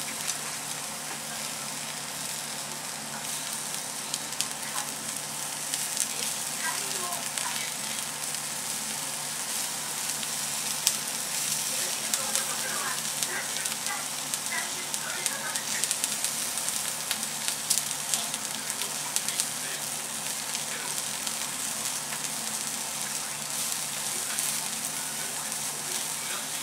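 Sweet shrimp heads sizzling and crackling on foil in a frying pan as they are roasted crisp. The sizzle is a steady hiss with scattered sharp pops throughout.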